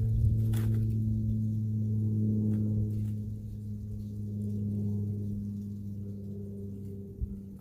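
A steady low hum with several evenly spaced overtones, wavering slightly in pitch, with a few faint clicks.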